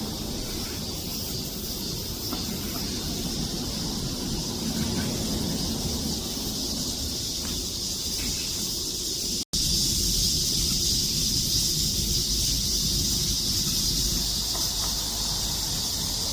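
Cicadas singing in chorus: a steady, high-pitched buzzing drone over a low rumble. After a momentary break about halfway through, the buzzing is louder.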